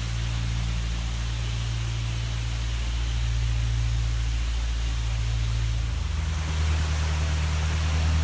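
An engine running steadily under a constant rushing noise; its low hum changes pitch about six seconds in.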